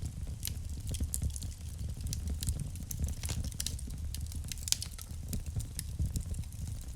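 Wood fire burning in a fireplace: irregular sharp crackles and pops, several a second, over a soft low rumble of the flames.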